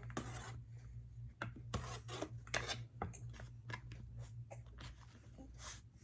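Irregular scrapes, rustles and light clicks of plastic takeout containers and utensils being handled as leftover rice is moved back into its container, over a steady low hum.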